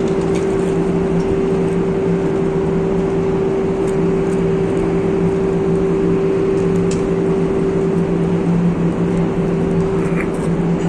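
Steel-melting furnace running: a loud, steady hum with one constant pitched tone and a lower tone that comes and goes, over a dense wash of noise, with a few faint crackles.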